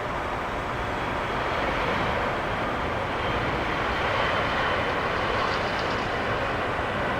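Jet aircraft engines running, a steady rushing noise with a faint high whine that swells slightly in the middle.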